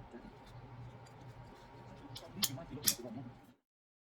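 Several sharp metallic clicks from a Kizer Mini Paragon folding knife being handled as it is put back together, three of them close together a little past halfway, over a low steady hum. The sound cuts off abruptly shortly before the end.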